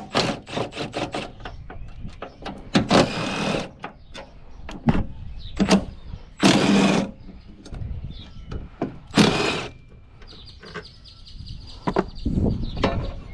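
Hands and tools working on a truck: scattered clicks and knocks, three short scraping or rustling bursts, and a run of rapid ticking a few seconds before the end.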